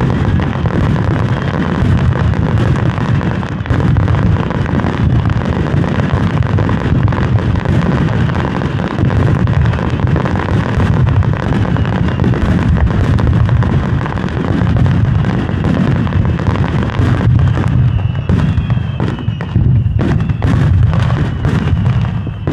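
Grand-finale barrage of aerial firework shells bursting in rapid, overlapping succession, which merges into a continuous deep rumble. Sharp individual cracks stand out more distinctly in the last few seconds.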